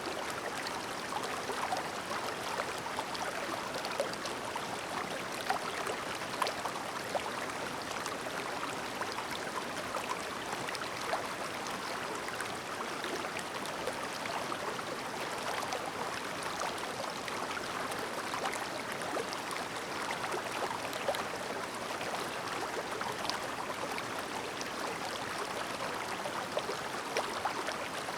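A shallow, clear mountain stream babbling steadily over stones, a continuous rush of water with many small splashes and gurgles.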